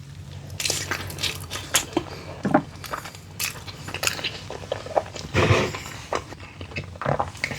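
Close-miked eating: a bite of sweet potato topped with buffalo chicken dip, then chewing with wet mouth clicks and smacks, a little louder about five and a half seconds in.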